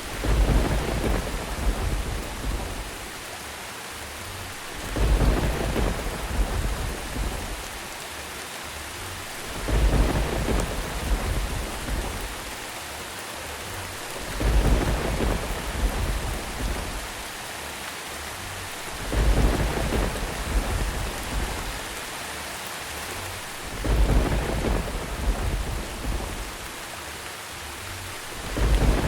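Steady rain with rumbles of thunder that swell up and die away at even spacing, about every five seconds.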